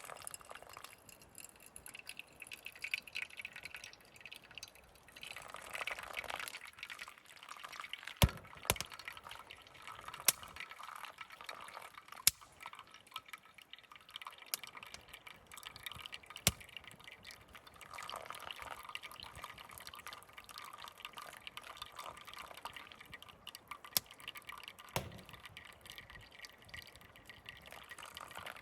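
Liquid pouring and dripping in uneven stretches, with a handful of sharp single clicks scattered through.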